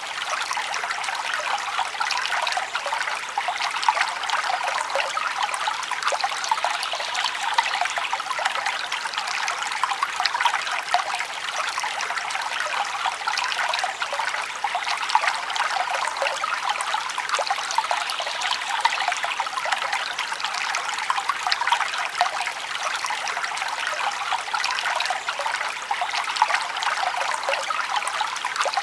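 Forest stream trickling and splashing steadily, a bright, even burble of running water with little low rumble.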